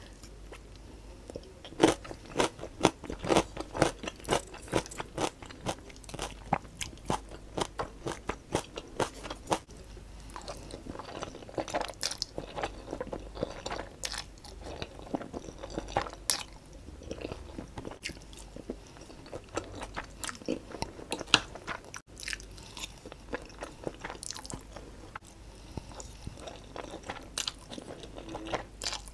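Close-miked eating: crisp crunching of a raw cucumber stick, with many sharp bites close together over the first several seconds, then softer chewing of black bean instant noodles.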